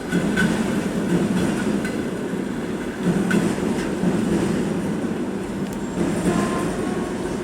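Express passenger train rolling past on the track: a steady rumble of wheels on rail with irregular clacks as the wheels cross rail joints.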